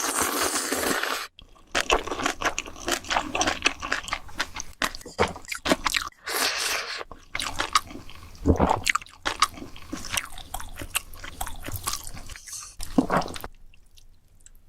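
Close-miked eating sounds: crunchy bites and wet, sticky chewing in quick irregular clicks, with a few short swishing slurp-like sounds, stopping about a second before the end.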